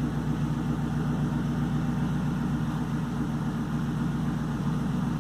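The supercharged V8 of a 2003 Roush Stage 3 Mustang idling steadily, an even low rumble with no revving.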